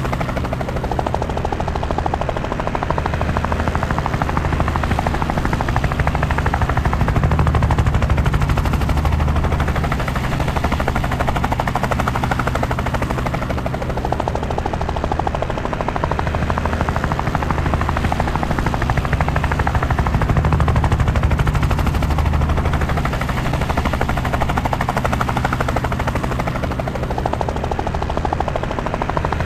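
Helicopter rotor and engine running steadily: a rapid beat of blade chop over a low drone, swelling a little in loudness twice.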